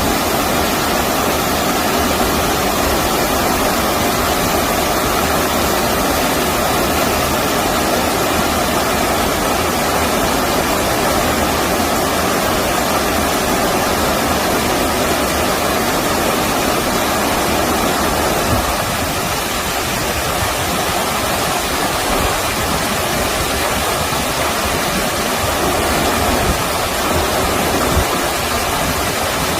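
Stream water rushing steadily, an even wash of flowing water with no distinct splashes. The deeper part of the rush eases a little about two-thirds of the way through.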